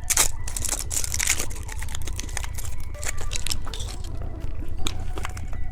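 Plastic candy wrapper crinkling and rustling as it is handled and torn open, a run of irregular sharp crackles and clicks.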